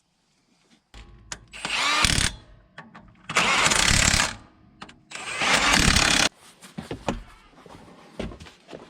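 A hand-held power tool run in three short bursts of about half a second to a second each, with light knocks and clatter between them.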